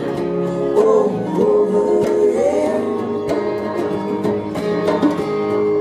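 Live acoustic string band playing between sung lines: plucked guitar and banjo over a sustained melody line that slides in pitch.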